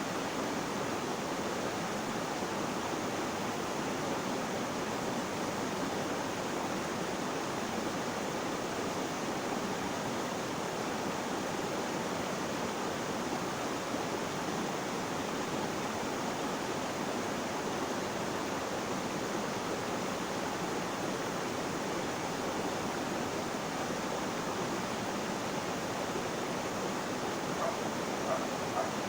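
Flowing water rushing steadily, an even wash of noise that does not change, with a couple of faint ticks near the end.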